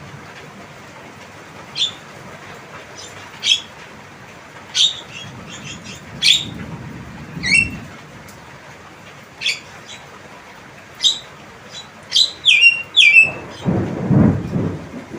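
Javan myna giving short, sharp calls about every second or so, some sliding down in pitch, with a quick run of several falling calls near the end. A low rumble runs under the last couple of seconds.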